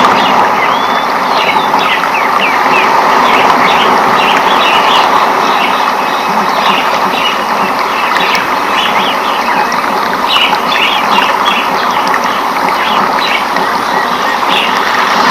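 Rainforest ambience: many short bird chirps, thickest near the start and again about two thirds of the way through, over a loud, steady rushing background.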